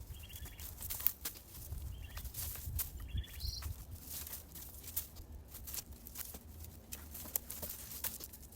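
Dry plant stems and garden debris crackling and rustling as weeds are pulled and cleared, with a few short bird chirps early on.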